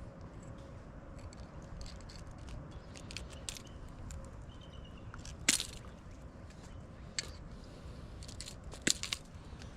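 Scattered small clicks and crackles of a lure's hooks being worked free from a smallmouth bass's mouth, the hooks set in an awkward spot. A sharp click comes about halfway through and another near the end, over a low steady background rumble.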